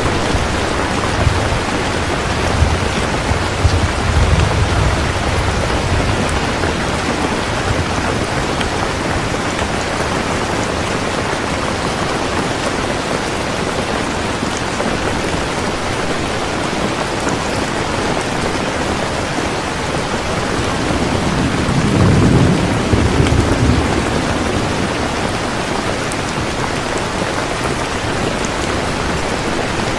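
Heavy, steady rain with thunder: low rumbles of thunder in the first few seconds and a stronger roll about two-thirds of the way through, under the constant hiss of the downpour.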